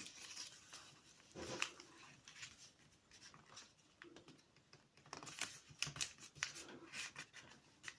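A sheet of paper being folded and creased by hand: faint, scattered rustles and crackles, busiest about five seconds in.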